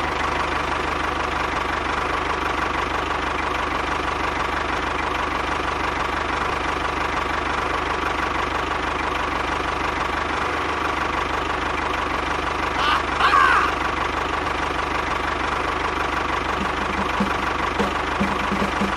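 A small motor running steadily with an even mechanical hum and whine, just after starting up. About thirteen seconds in there is a brief high chirp, and light rapid knocks come in near the end.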